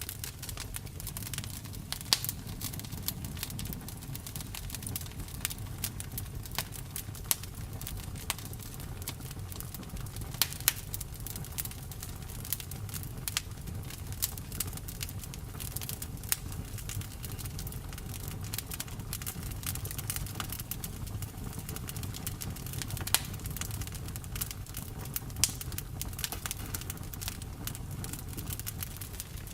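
Campfire burning: a steady low rumble of flames with frequent, irregular sharp crackles and pops, a handful of them much louder snaps.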